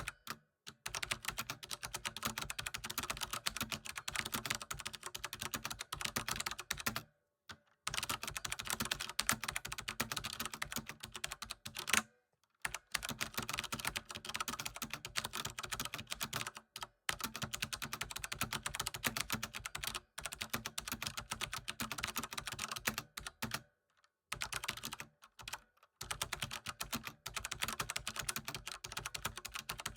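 Computer keyboard typing: a fast, continuous run of keystrokes, broken by short pauses of under a second, most clearly about 7 and 12 seconds in and several times near the end.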